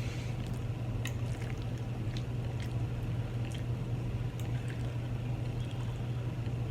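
Steady low hum with scattered faint clicks and soft handling sounds of food and utensils.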